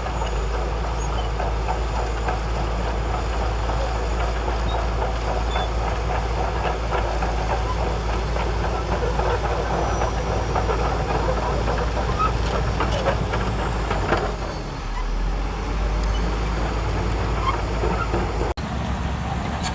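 Shantui DH17C2 crawler bulldozer at work: a steady low engine drone with a constant clatter and rattle of its tracks and running gear. The sound breaks off abruptly near the end and carries on.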